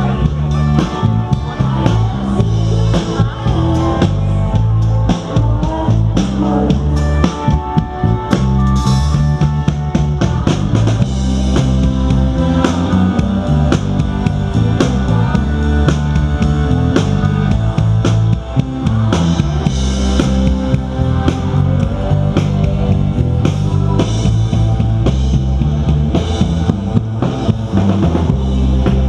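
Live rock band playing with a full drum kit and a steady beat, bass and guitars.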